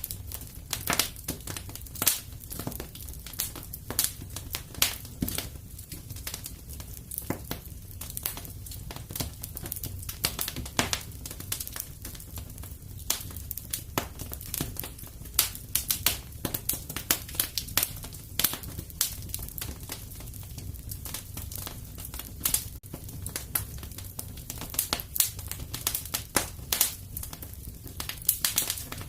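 Wood fire in a fireplace crackling: irregular snaps and pops, several a second, over a low steady rumble.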